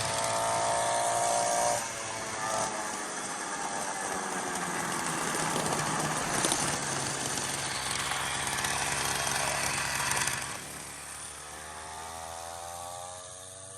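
Small 49cc two-stroke dirt bike engine running under throttle. About ten seconds in it drops quieter and its pitch climbs steadily.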